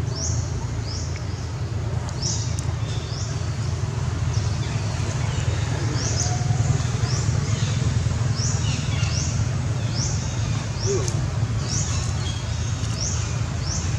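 A bird chirping: short, high notes that each drop in pitch, repeated in loose runs every half second to a second. Under them runs a steady low rumble.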